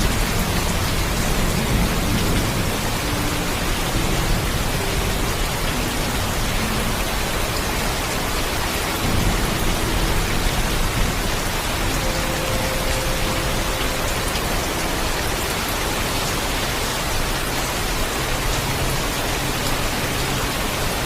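Heavy, steady rainfall, an even hiss of rain hitting surfaces. A low thunder rumble sits beneath it, strongest in the first second or so.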